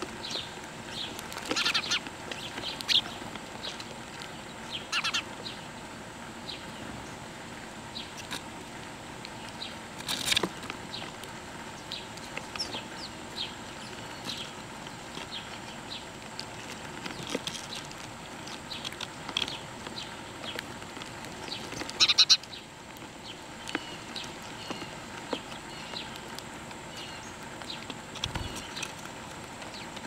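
Birds chirping in short, scattered calls, with a couple of sharper, louder sounds about ten seconds and twenty-two seconds in.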